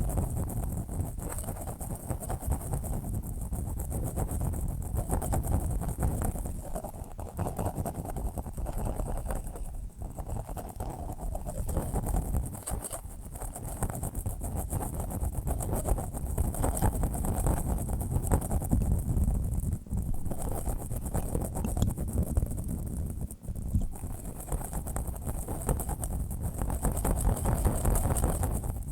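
Steady low rumbling noise with a thin high hiss above it, wavering slightly in level with a few brief dips: a continuous sleep-aid noise track.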